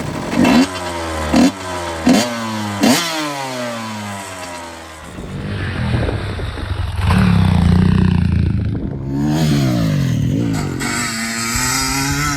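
1997 Honda CR250's two-stroke single-cylinder engine being revved: four quick throttle blips in the first three seconds, then running more steadily with slower rises and falls in revs.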